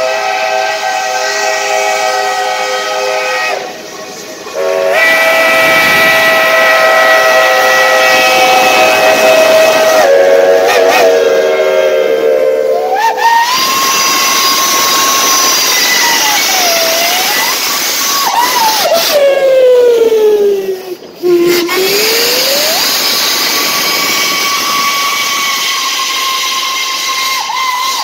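Steam locomotive whistles blowing over a steam hiss. First a multi-note chime whistle sounds a chord in long blasts with brief breaks. From about halfway a single-note whistle takes over, its pitch sliding down and back up several times and dropping low near the end.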